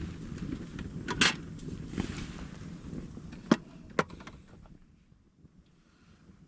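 Handling noise: rustling with a few sharp knocks or clicks, the loudest about a second in and two more between three and four seconds in, growing quieter towards the end.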